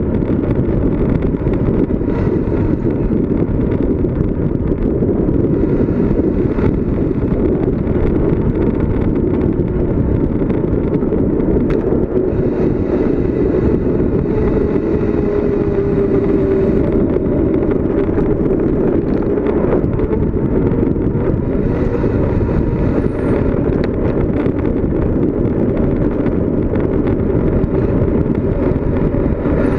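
Wind rushing over the microphone of a bicycle coasting fast downhill: a steady, loud, low rush.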